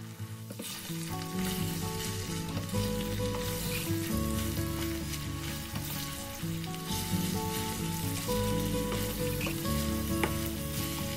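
Shredded chicken sizzling in a stainless steel pan while a wooden spatula stirs it, with now and then a tap of the spatula. Background music plays underneath, its chords and bass changing about every second.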